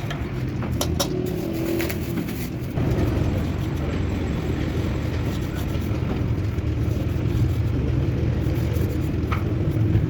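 A steady low engine rumble that gets louder about three seconds in, with a few sharp clicks over it.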